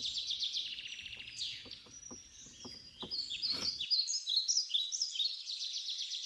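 Several songbirds singing at once, with overlapping quick trills and high chirps. The singing is strongest about four to five seconds in, and a few faint clicks sound underneath in the first half.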